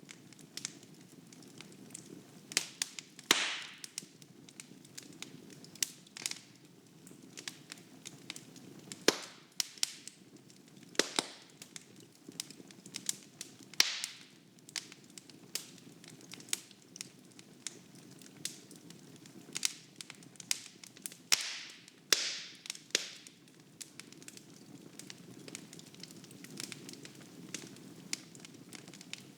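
Wood fire burning in a fireplace: a soft, steady rush of flame with irregular crackles and pops, and every few seconds a louder snap with a brief hiss as the burning logs split.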